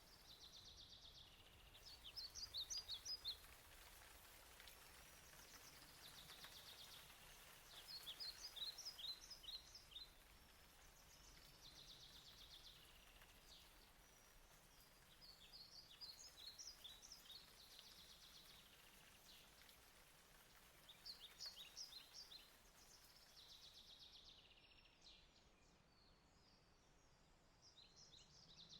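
Faint forest ambience: a songbird sings a short phrase of quick, high chirping notes about every six seconds, five times in all, over a soft hiss of rain.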